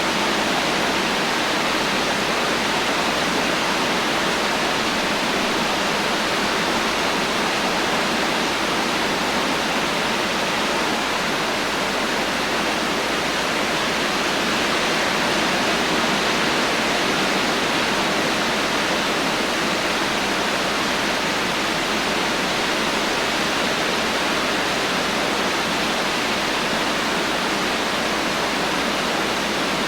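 Heavy rain falling steadily as a dense, even hiss, with no thunder and no separate drops or changes.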